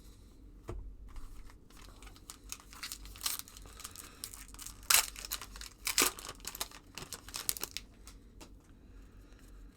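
1990-91 SkyBox basketball trading cards being handled and flipped through: irregular rustling and crinkling with sharp clicks, the loudest snaps a little under five seconds and about six seconds in.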